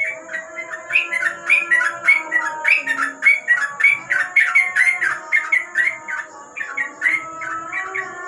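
Trucuk (yellow-vented bulbuls) chattering: a dense run of short, bubbly chirps at about four a second, several birds overlapping. Steadier whistled tones sit underneath, and the chatter thins near the end.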